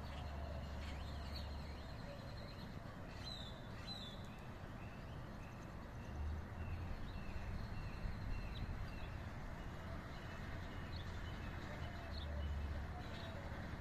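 Birds chirping and calling, with a run of short repeated notes in the middle, over a steady outdoor hiss and a low rumble.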